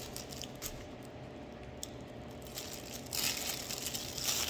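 Food wrapping crinkling and rustling as it is handled and opened, with a few light clicks at first and louder, continuous crinkling from about three seconds in.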